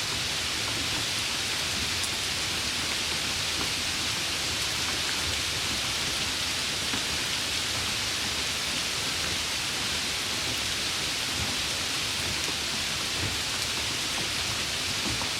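Steady rain falling, an even hiss with no pauses or thunderclaps.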